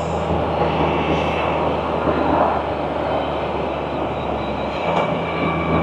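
Can-Am Spyder three-wheeler's engine running at a steady low pitch while riding, with wind and road noise on the bike-mounted microphone. The engine note dips briefly near the end.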